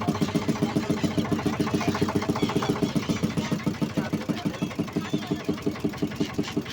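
Boat engine running with a steady, even chugging beat of several pulses a second.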